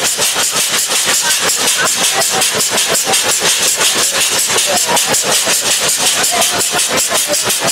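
Train passing close by, with a rapid, even beat of about eight pulses a second over a loud hiss.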